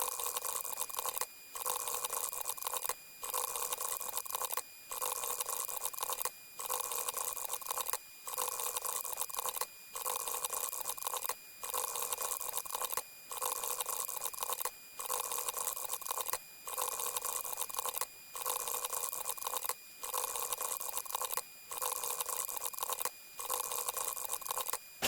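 A short, water-like sound effect played over and over, about every 1.7 seconds, with brief silent gaps between passes. Each pass is a steady hiss carrying a few faint constant tones.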